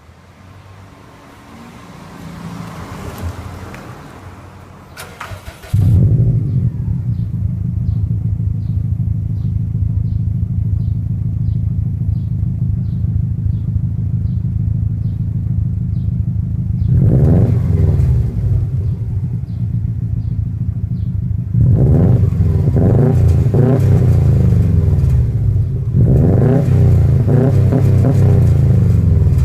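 2004 Subaru WRX turbocharged flat-four engine through a Turbo XS mid pipe and aftermarket axle-back exhaust, starting suddenly about six seconds in and idling steadily. It is then blipped three times, the pitch rising and falling with each rev.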